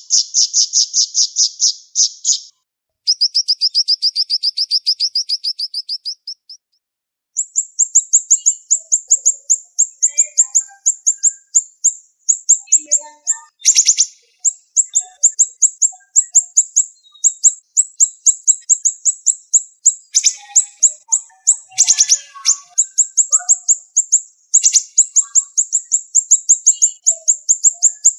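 Siri-siri bird singing fast, sharp trills: long runs of rapid, high-pitched repeated notes, with a couple of short pauses in the first seven seconds and then almost unbroken trilling.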